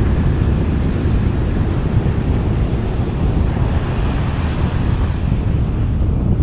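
Sea waves washing onto a beach, a steady surf that swells a little about four seconds in, with wind rumbling on the microphone.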